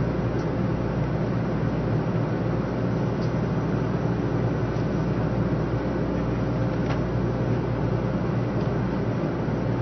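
Steady low rumble and hum inside the passenger cabin of a 500 series Shinkansen train as it creeps along the platform and comes to a stop, with a few faint clicks.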